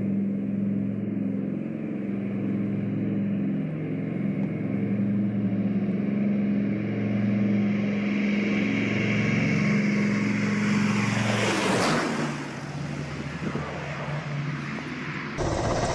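A four-engine turbofan jet transport (C-17 Globemaster III) flies low overhead. The engine drone and rushing whine build to a loud whoosh as it passes about twelve seconds in, then the pitch drops as it moves away. Near the end the sound cuts suddenly to a steady rushing noise.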